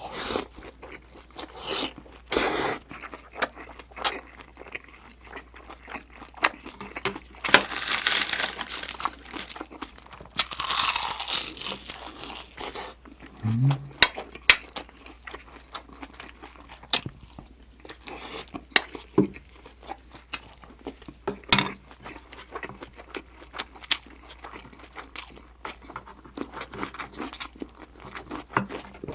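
Close-miked chewing and crunching of food, with many short crisp crunches throughout. There are two longer noisy stretches of about two seconds each, a third of the way through.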